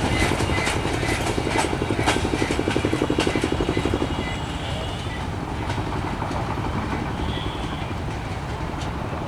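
Empty freight wagons of a goods train rolling past on the rails, a steady rumble with sharp metallic clicks and clanks from the wheels; the rumble eases a little about four seconds in.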